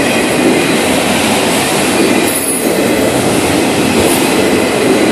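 Freight cars of a slow-moving Florida East Coast Railway freight train rolling past close by, with a steady loud rumble and rattle of steel wheels on the rails.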